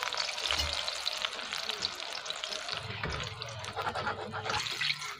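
Eggplant pieces frying in hot oil in a wok: a steady, crackling sizzle.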